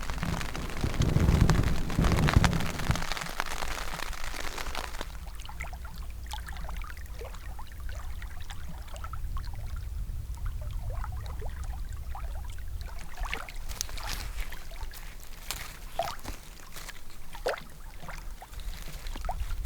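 Rain at night: a heavy wash of rain for the first few seconds, then easing to scattered single drops ticking on a tent or tarp.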